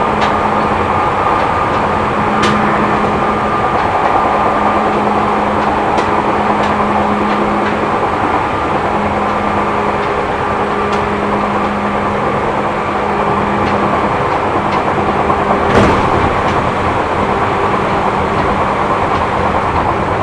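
Seibu New 2000 series electric train heard from inside the car while running at speed: a steady rumble of wheels on rail with a constant motor hum, and a sharp click about 16 s in.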